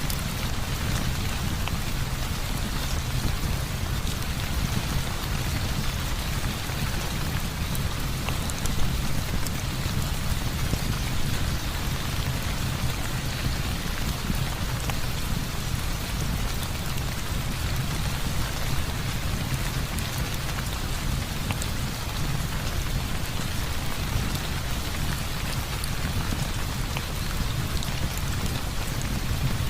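Heavy rain falling steadily, with a constant low rumble beneath the hiss of the rain.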